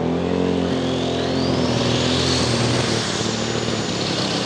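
Super Stock pulling tractor engine at full throttle dragging the weight sled, with a high turbocharger whine that climbs over the first couple of seconds and then holds.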